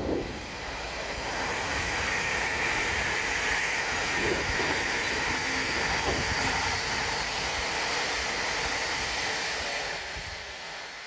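Thameslink Class 700 electric multiple unit running through the station: a steady rushing noise with a higher hiss on top, dying away near the end.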